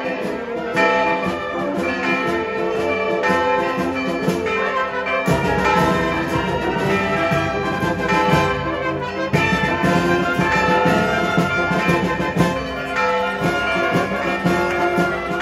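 Brass band playing, trumpets and trombones over sustained chords. About five seconds in, a heavy low rumble joins under the band.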